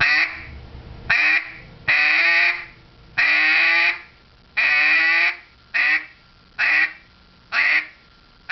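Duck call blown in a series of about eight quacks, three in the middle drawn out and the rest short and clipped, each cut off sharply by the caller's tongue: the basic hen-mallard quack used in duck hunting.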